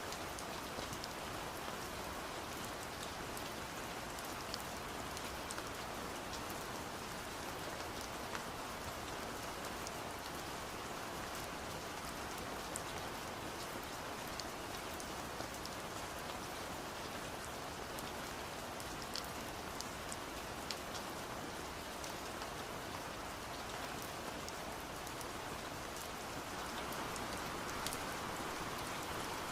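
Steady rain, a continuous hiss with many scattered sharp taps of drops on window glass, growing slightly louder near the end.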